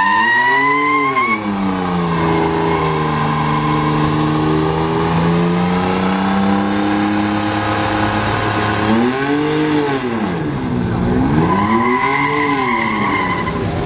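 Truck engine revving hard during a burnout, with tyres squealing in a steady high tone. The revs climb, settle and hold for several seconds, then rise and fall twice near the end as the tyre squeal returns.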